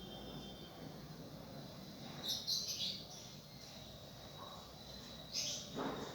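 A bird calling: a quick cluster of high chirps about two seconds in and a shorter one near the end, over a faint steady high tone and background noise.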